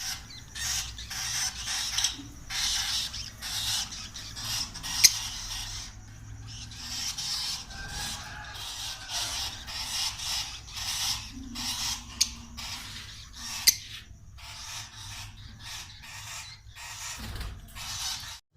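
A flock of caged lovebirds chattering, with rapid, harsh, high-pitched chirps and squawks overlapping several times a second. A few sharp clicks stand out, three of them.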